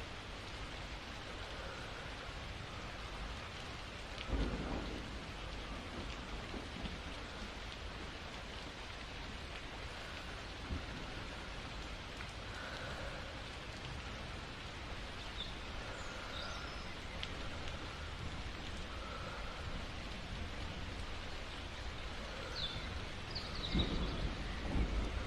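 Steady rain, with low thunder rumbles about four seconds in and again near the end.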